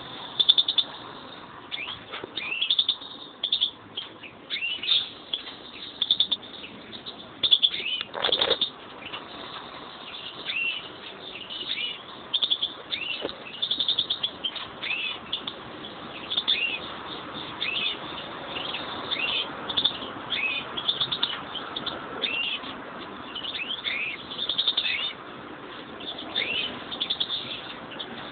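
Pet European greenfinches calling: a steady run of short chirps, many sliding down in pitch, one or two a second, with a single brief thump about eight seconds in.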